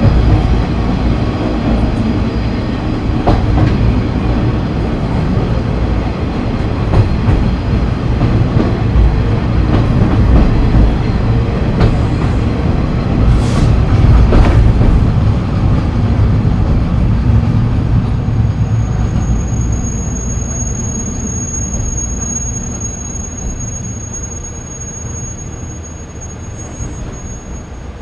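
Inside a JNR KiHa 30 diesel railcar running, with underfloor rumble and clicking over rail joints. It slows in the second half as the sound fades, and a high, steady squeal sets in during the last nine seconds.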